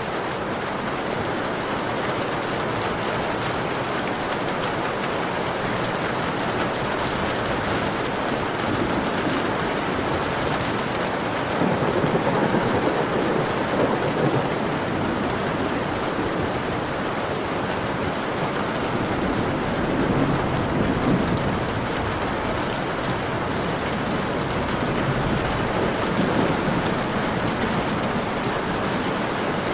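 Steady heavy rain pattering against a window pane, with low rumbles of thunder swelling up about twelve seconds in and again around twenty seconds in.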